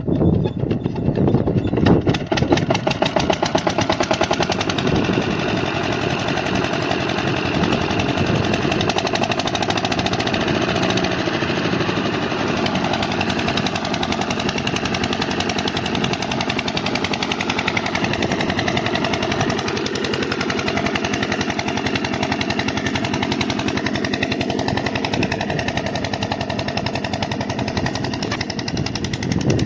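Lister-type diesel engine of an irrigation water pump set running with a rapid, even thumping beat. It is a little louder and rougher in the first two seconds, then runs steadily.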